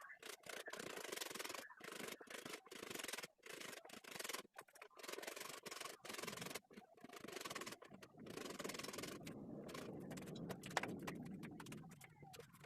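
Repeated hand-rubbing strokes across a board surface, each lasting about half a second to a second, with short breaks between them.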